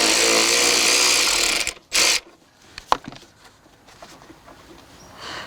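A handheld power tool's motor running for just under two seconds, then one short second burst, as it drives a fastener home. A single click follows about a second later.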